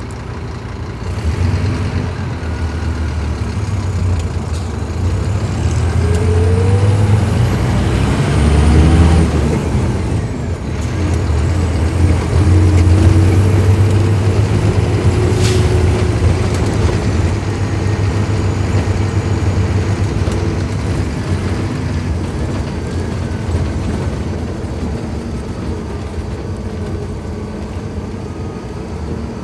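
Scania K310IB bus's diesel engine pulling under load as the bus accelerates. Its pitch rises for several seconds, then drops at a gear change about ten seconds in. It pulls again and slowly eases off, with a brief sharp hiss or click about halfway through.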